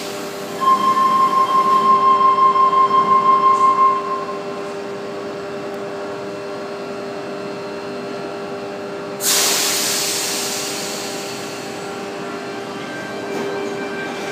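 Sydney Trains Tangara electric train at the platform: its door-closing warning beeps rapidly for about three seconds as the doors shut, over the train's steady electrical hum. About nine seconds in comes a sudden loud hiss of air that fades away over several seconds.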